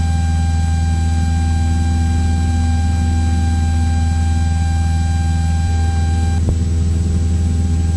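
Cessna 172's engine and propeller droning steadily in cruise, heard in the cabin through the intercom recording, with a thin steady whine over it that stops about six and a half seconds in with a faint click.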